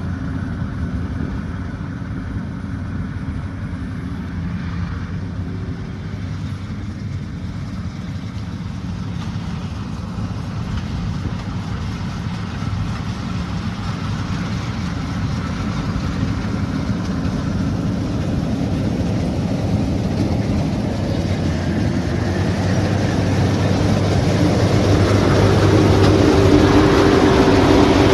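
Combine harvester's engine running steadily, growing louder over the last few seconds.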